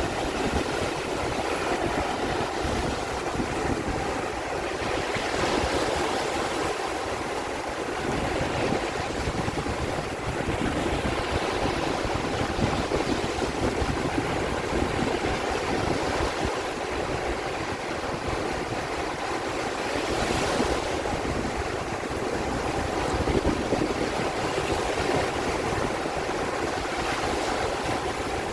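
Sea waves washing, with wind buffeting the microphone; the wash swells up now and then.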